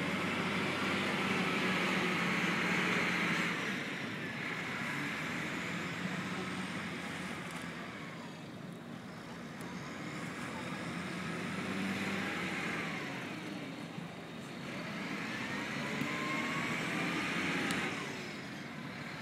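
Motor vehicle engines and traffic noise at a car ferry, swelling louder and fading several times as vehicles move.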